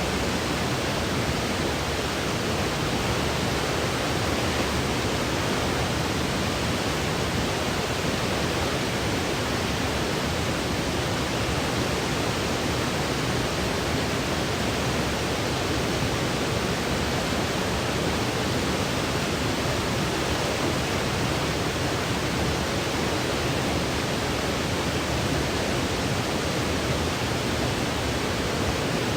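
Steady synthetic noise, like a gentle hiss or rushing, even and unchanging throughout.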